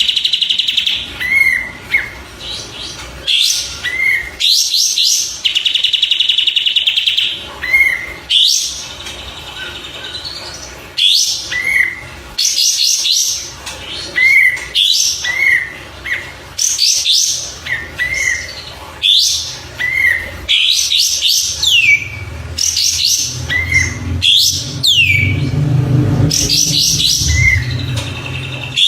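Songbird calls of the kind used for masteran song training: short rising-and-falling chirps about once a second, with bursts of high rapid trills, a couple of longer buzzy trills and a few falling whistled sweeps.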